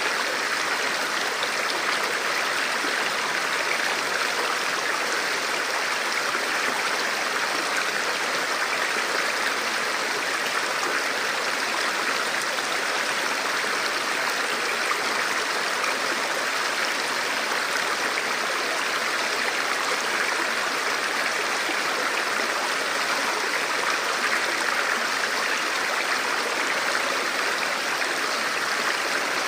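Forest river flowing steadily over rocks, an even rushing and babbling of water.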